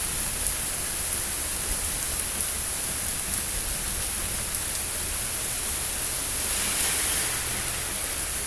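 Steady rain during a thunderstorm, an even hiss with a slight swell about seven seconds in.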